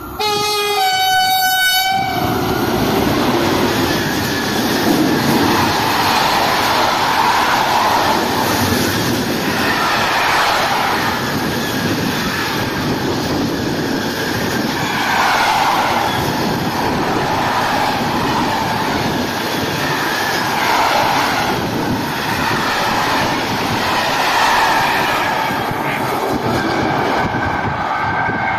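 Electric freight locomotive sounds its horn for about two seconds, then a long container freight train passes close by. Its wheels rumble and clatter steadily on the rails, swelling and easing as the wagons go by.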